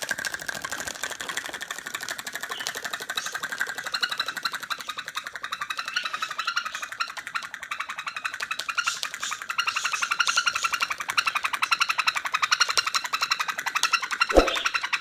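A pet bird making a fast, steady trilling chatter of many rapid pulses a second, high-pitched, growing a little louder about halfway through.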